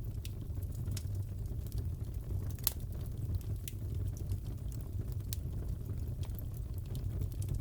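Wood fire crackling in a fireplace: scattered sharp pops and snaps over a low steady rumble, with one louder pop a little under three seconds in.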